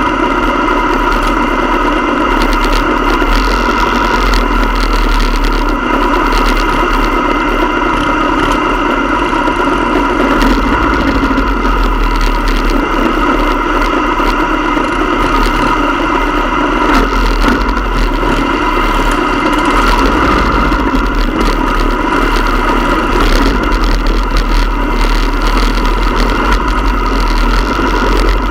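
Motorcycle engine running steadily at an even pitch, loud and unbroken throughout.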